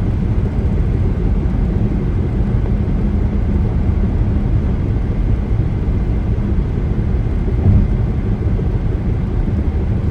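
Steady low rumble of tyre, road and engine noise inside a moving car, with one brief bump about eight seconds in.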